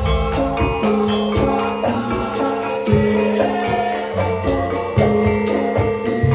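Javanese gamelan ensemble playing a lengger gending: ringing bronze metallophones and gongs in interlocking (imbal) patterns over repeated kendang drum strokes.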